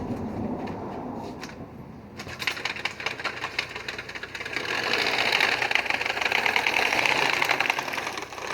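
Rapid mechanical rattling, a fast, even run of clicks that starts about two seconds in and grows louder.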